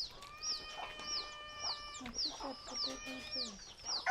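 Chickens clucking, with a small bird's high falling chirp repeating about twice a second.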